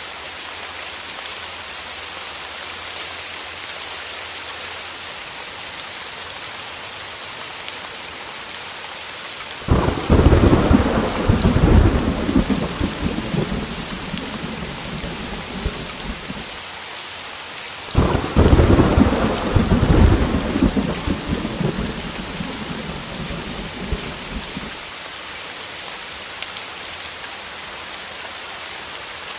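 Steady heavy rain hiss with two rolls of thunder. Each roll cracks in suddenly, about ten seconds in and again at eighteen seconds, then rumbles low and dies away over about six seconds.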